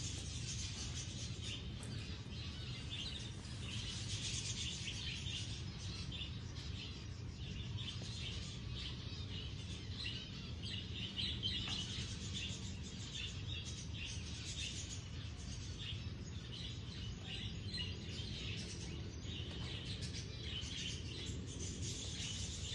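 Many small birds chirping and calling continuously, short overlapping chirps with no pause, over a steady low rumble.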